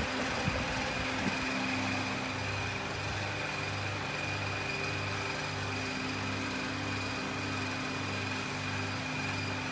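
Double-head aluminium cutting machine running steadily, a constant motor hum with a fixed whine and a low hum that pulses about twice a second, with no cut being made.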